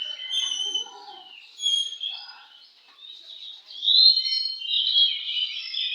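Oriental magpie-robin (kacer) singing loud, varied whistled phrases. It fades briefly just before the middle, then comes back loud.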